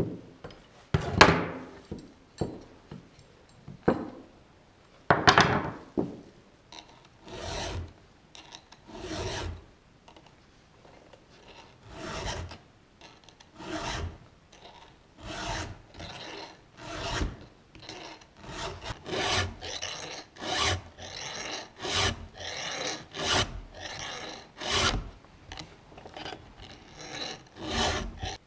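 Chainsaw chain being sharpened with a hand file: a series of rasping file strokes across the cutter teeth, slow and spaced at first, then quicker and more regular, about one to two strokes a second.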